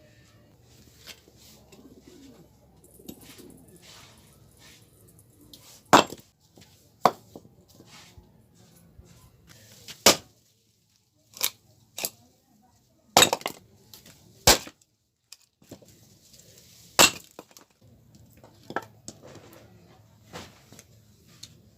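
Firewood being worked by hand: a series of sharp, irregularly spaced knocks and cracks of wood, a dozen or so, some much louder than others.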